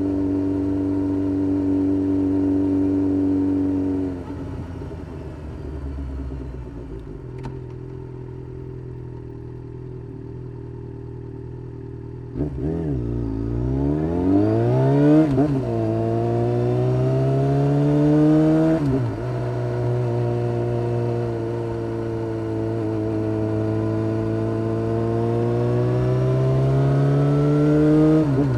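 Yamaha XJ6-S 600 cc inline-four motorcycle running on a full Black Widow de-cat exhaust with a carbon-fibre silencer: a steady engine note drops to a lower idle about 4 s in, then the revs rise and fall as the bike pulls away. It accelerates with the pitch climbing steadily, drops sharply at a gear change about two-thirds of the way in, and climbs again in the next gear.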